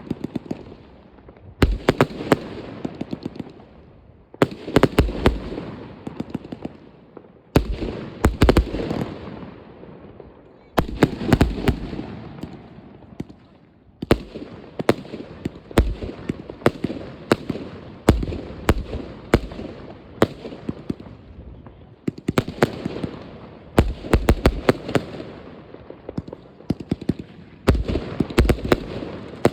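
New Year's Eve fireworks going off: clusters of sharp bangs about every three seconds, each group trailing off into an echoing rumble and crackle.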